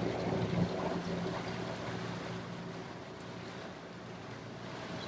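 Motor yacht underway on a canal: a steady low hum from the boat with water and wind noise, the hum easing off about three seconds in.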